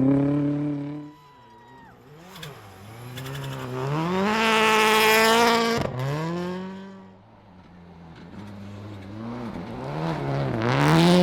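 Rally car engines revving hard through the gears at stage speed. Each car's note climbs to full volume, and the loudest one cuts off sharply about halfway through. Another car's revs build again near the end.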